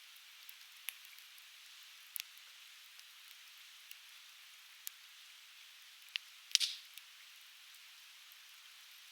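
Conifer firewood crackling as it burns, with sharp single pops every second or so and one louder pop with a brief hiss about two-thirds of the way through, over the steady rushing of a nearby river.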